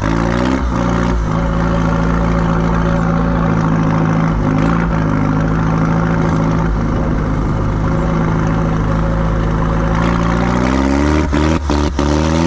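Off-road vehicle engine running at a fairly steady speed, its revs climbing near the end, with some clattering around the edges.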